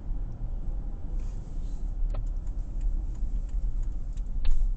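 Steady low rumble of a car driving, heard inside the cabin, with two sharp clicks, one about two seconds in and one near the end.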